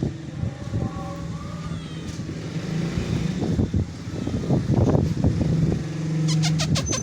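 A motor vehicle's engine running, a steady low hum that rises and falls a little, with a quick run of sharp clicks near the end.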